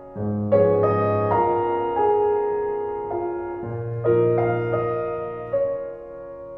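Piano music: slow notes and chords, each struck and left to ring and fade.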